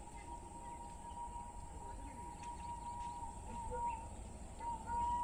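A distant train horn held as one long, steady two-note tone with a couple of small pitch dips, over a low rumble and faint bird chirps.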